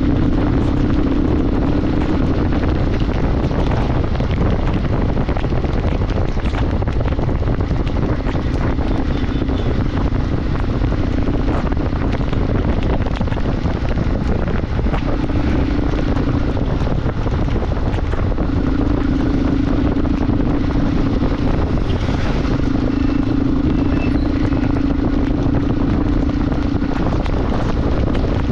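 Motorcycle riding at speed: heavy wind buffeting the microphone, with the engine's steady hum fading in and out in stretches of a few seconds.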